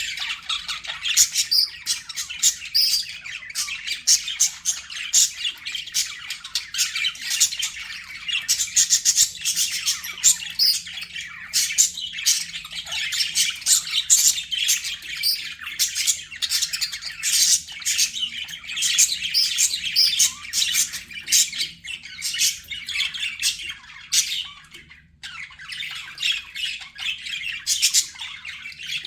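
A group of budgerigars chirping, warbling and squawking in dense, overlapping chatter, with a brief lull about 25 seconds in.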